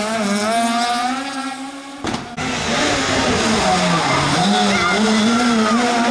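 Rally car engine running hard at high revs. There is an abrupt break about two seconds in, and the revs dip and climb back near four seconds in.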